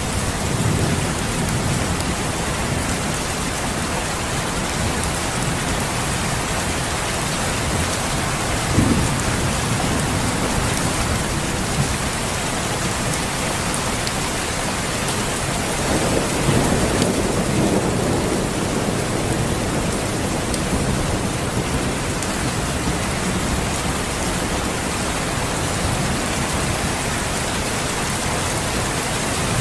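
Steady rain falling, with a sudden crack about nine seconds in and a low rumble of thunder a little past the middle.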